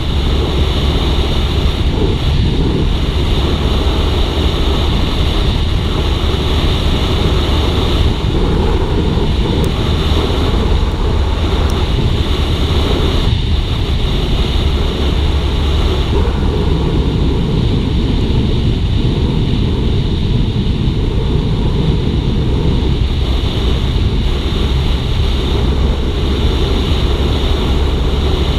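Suzuki GSX-R150's single-cylinder engine running steadily under way, mixed with heavy wind noise on the microphone.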